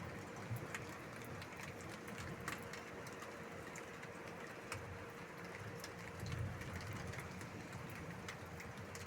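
Light rain beginning as a storm approaches: scattered raindrops ticking over a faint steady hiss. A faint steady hum runs underneath, and a low rumble swells about six seconds in.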